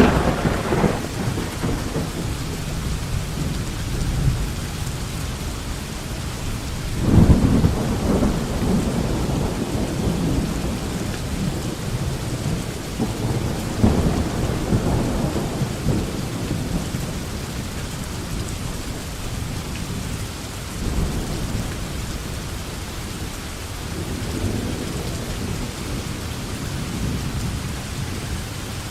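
Thunderstorm: steady rain falling with repeated rolls of thunder, the loudest cracking in right at the start and again about 7 and 14 seconds in, each rumbling off over several seconds, with softer rumbles later.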